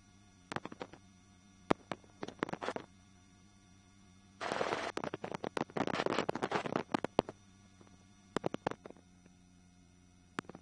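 Helicopter headset intercom with no one talking: scattered clicks, a stretch of crackling noise of about three seconds roughly four seconds in, and a faint steady hum beneath.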